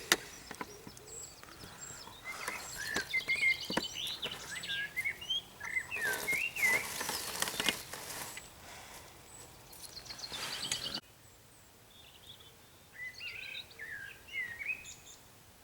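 Songbirds chirping and singing by the water, with a few clicks and bursts of rustling close by. About eleven seconds in the background suddenly drops quieter, and more bird chirps follow.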